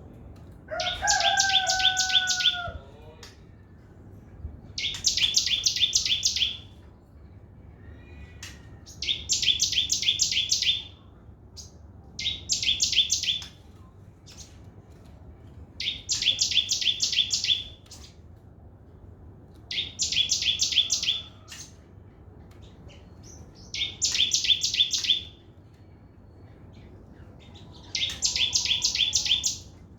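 Crimson sunbird singing its fast 'trotol' trill: high, rapid strings of notes in bursts of a second or two, repeated about every four seconds, eight times. A lower, slightly falling whistle sounds under the first burst.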